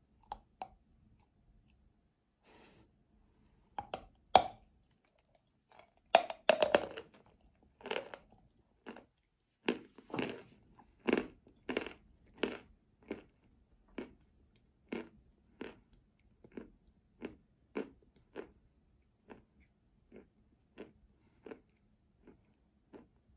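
Biting into a stick of edible chalk spread with paste, with sharp crunchy cracks about four to seven seconds in, then steady crunchy chewing at about one and a half chews a second that grows fainter.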